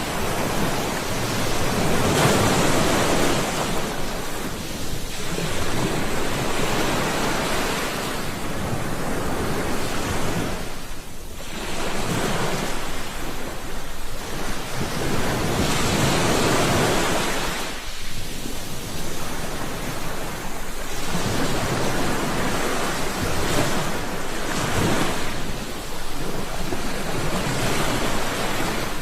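Sea waves breaking on a shore, a steady surf that swells and falls back every three to four seconds, with some wind.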